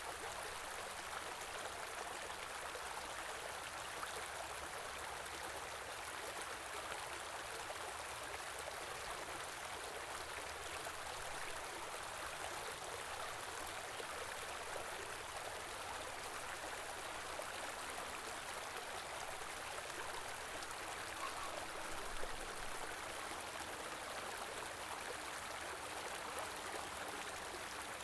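Small river or stream flowing steadily over rocks, an even rush of water.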